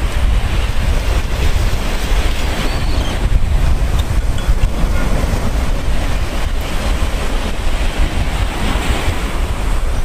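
Steady sea surf: small waves washing onto a pebbly shore, with a deep low rumble underneath.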